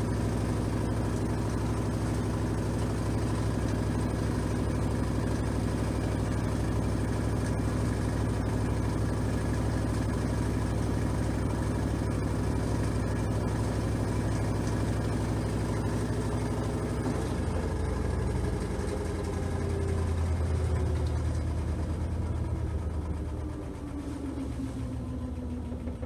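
LG 6.5 kg washing machine in its spin cycle: a steady motor and drum hum that, about two-thirds of the way through, starts falling in pitch and getting quieter as the drum slows down at the end of the spin.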